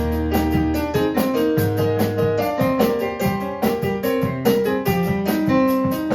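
Electric keyboard played with a piano sound: a busy run of notes and chords over held low bass notes.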